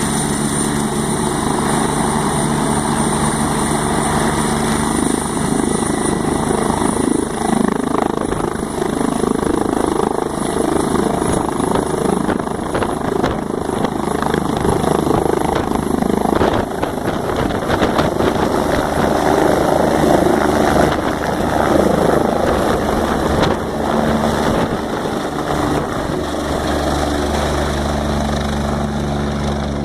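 Helicopter running close by: a loud, steady rotor and engine noise with a thin high whine that slowly rises in pitch.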